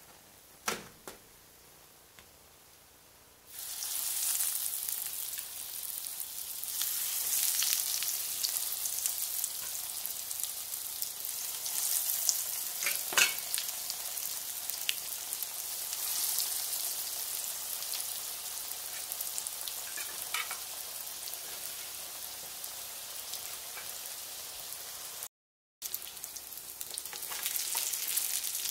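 Breaded eggplant slices shallow-frying in hot oil in a frying pan: a loud, crackling sizzle starts suddenly a few seconds in and carries on steadily, with a few sharp clicks. The sound drops out for a moment near the end.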